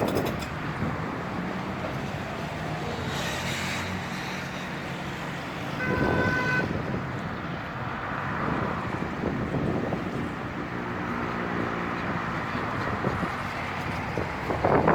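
Street traffic and wind, with a short vehicle horn toot about six seconds in and a lower engine hum passing a few seconds later.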